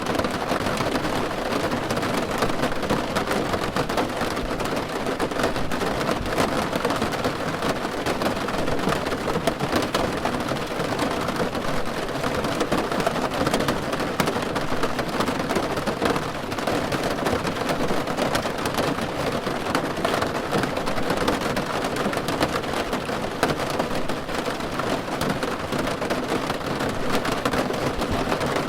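Steady rain drumming on a car roof: a dense, even patter of countless drops that holds a constant level.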